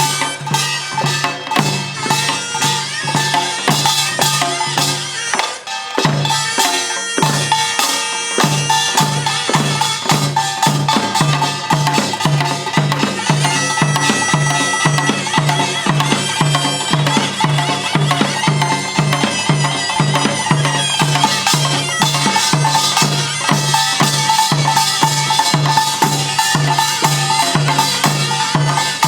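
Korean pungmul band playing: drums pounding a steady beat of about two a second under clanging small gongs, with a reedy taepyeongso shawm line on top. The beat breaks off briefly about six seconds in, then picks up again.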